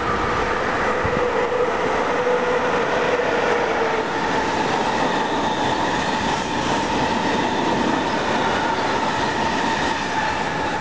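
Train passing close by: a steady loud rush of wheels on the rails, with a faint held whine that sits higher in the second half.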